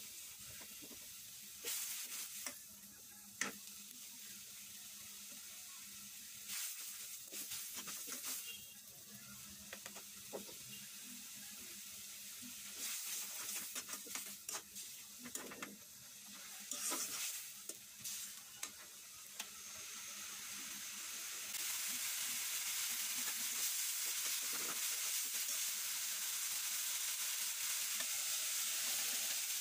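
Onions and spices sizzling in hot oil in a wok, with a spatula scraping and stirring against the pan now and then. About two-thirds of the way through the sizzle grows louder and steadier.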